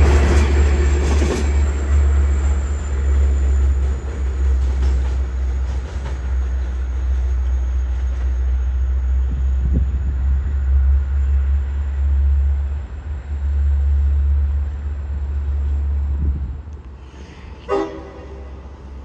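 Long Island Rail Road train rolling past: a loud, steady low rumble of wheels on rail with a faint thin high whine. The rumble dies away near the end, and a brief pitched sound follows just after.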